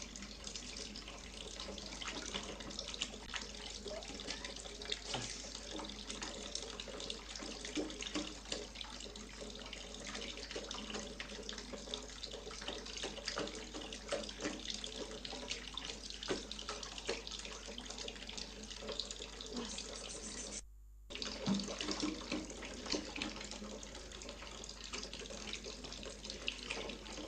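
Kitchen tap running into a sink full of dishes, a steady splashing stream with small clinks and splatters as a cat paws at it. The sound breaks off for a moment about 21 seconds in.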